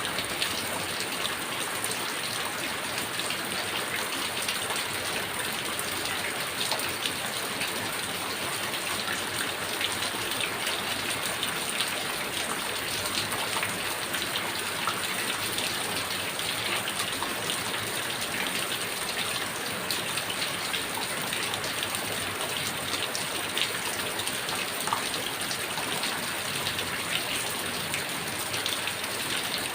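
Heavy rain falling steadily: a dense, even hiss of rain with many individual drops ticking through it.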